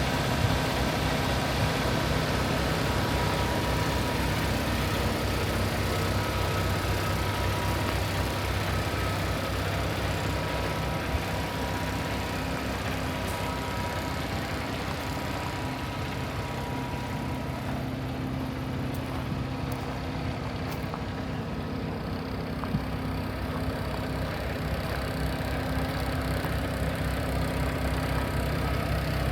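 Paccar MX-13 inline-six diesel engine of a Kenworth T680 semi tractor idling steadily.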